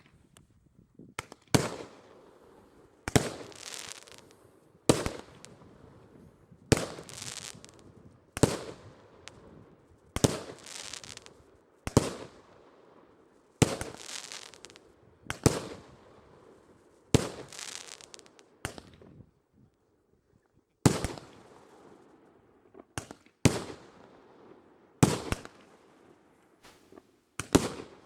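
Fireworks going off in a regular series: about fifteen sharp bangs, roughly one every two seconds, each followed by a short crackle, with a brief pause two-thirds of the way through.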